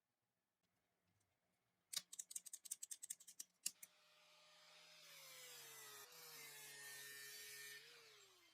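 A quick run of sharp clicks about two seconds in, then a small power tool spins up and runs steadily for about five seconds, its pitch sagging a little, before it cuts off near the end.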